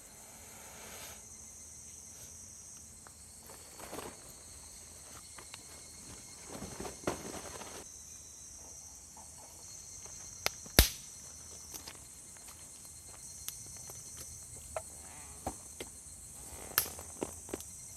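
Insects chirring steadily in high, thin tones, with scattered light clicks and knocks of something being handled. The sharpest knock comes about eleven seconds in.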